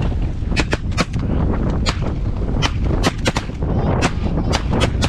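Several shotguns firing in a rapid, ragged volley of about a dozen shots, with wind buffeting the microphone throughout.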